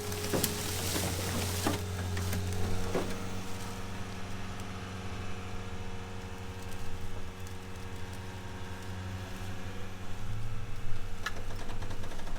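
A vehicle engine running steadily with an even hum, slightly louder for the first few seconds, with a few faint clicks and knocks.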